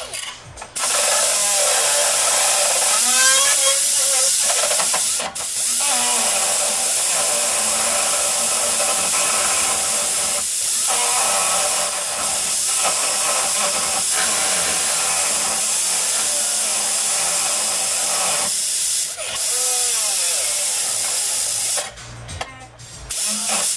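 Loud, steady hiss of a metal-cutting or welding tool at work. It runs for about twenty seconds, broken by brief pauses about 5, 10 and 19 seconds in, and stops shortly before the end. A radio plays faintly underneath.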